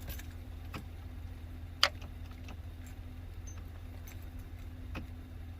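A single sharp click about two seconds in as the boat's starter is tried, with no cranking after it: the engine does not turn over. A steady low hum and a couple of fainter ticks run underneath.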